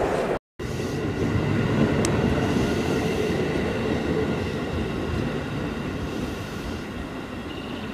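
JR West electric train running along the track and moving away, its rumble slowly fading, with faint steady tones on top. There is a short gap about half a second in.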